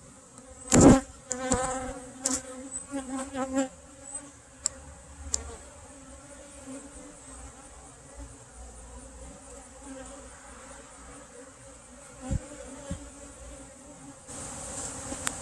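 Honeybees buzzing around an open hive, a humming drone that is strongest in the first few seconds and then fainter. A thump about a second in and a few sharp clicks.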